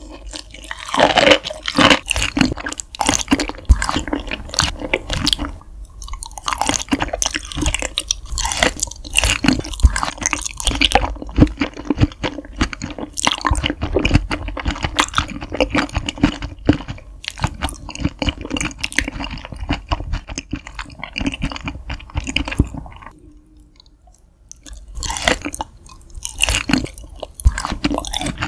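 Close-miked ASMR eating of raw beef spinal cord and other raw beef offal: many quick, irregular wet chewing clicks and smacks, with a brief quiet pause about 23 seconds in. Raw beef spinal cord is soft like pudding and chewy like jelly, yet still makes audible chewing sounds.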